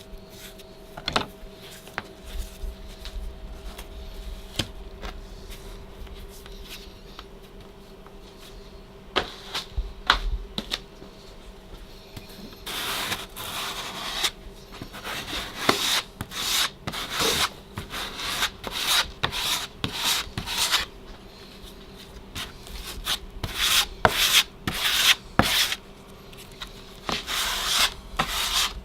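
Metal drywall knife scraping and smoothing wet joint compound over a drywall patch, in repeated strokes from about halfway through. Before that, only scattered taps and clicks over a faint steady hum.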